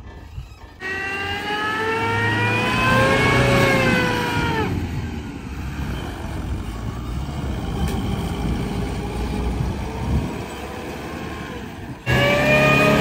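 Unimog truck engine revving hard while the truck struggles up a deep-snow track. The revs climb for about three seconds, then fall away into rough running noise, and the engine picks up again near the end.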